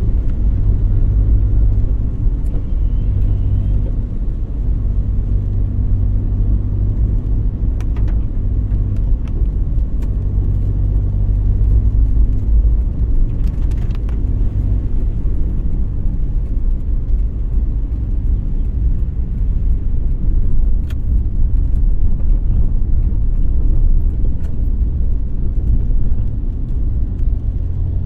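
Car driving along: a steady low engine and road rumble, with a few brief clicks and a short hiss about halfway through.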